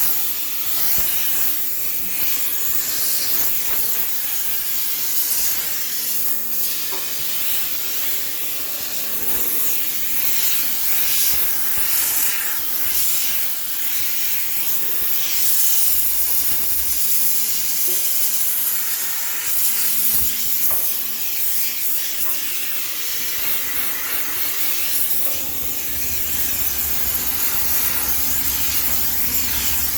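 High-pressure steam cleaner hissing steadily as steam is sprayed to sterilise a washing machine, the hiss swelling and easing as the nozzle moves.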